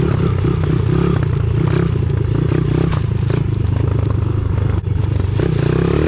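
Pit bike engine running under changing throttle, its pitch rising and falling, with one brief drop in loudness a little before the end.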